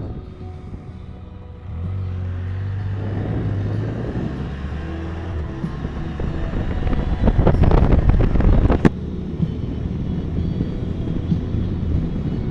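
Motor vehicle engine running with a steady low hum that starts suddenly under two seconds in, then swells louder around seven to nine seconds and cuts off abruptly.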